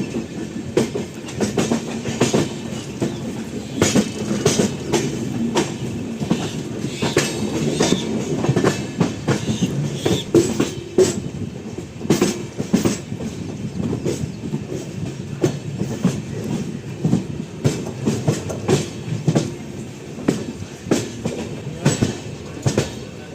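Indian Railways passenger coach running on the rails, a steady rumble with many irregular wheel clacks over rail joints and points.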